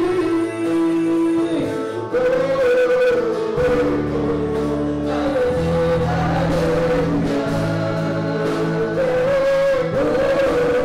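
Gospel worship song: voices singing held, wavering notes over instrumental accompaniment with a bass line.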